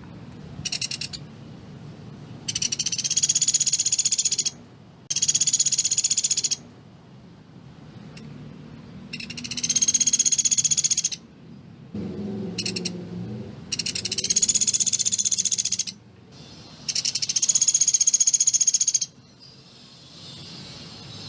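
Pelatuk beras woodpecker calling in dense, rapid, buzzy trills. Five long trills of about one and a half to two seconds each are separated by short pauses, with two brief bursts between them.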